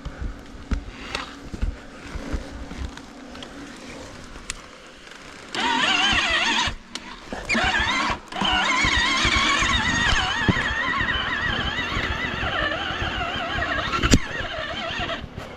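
Motorcycle engine revving hard, its pitch wavering up and down. It comes in loud about five and a half seconds in, cuts out briefly twice, then keeps running. Before that there are only faint knocks and rattles.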